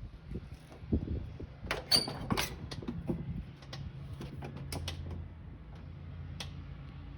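A quick run of clicks, knocks and creaks from a mechanism being worked, loudest about two seconds in. From about three seconds in, a steady low hum follows.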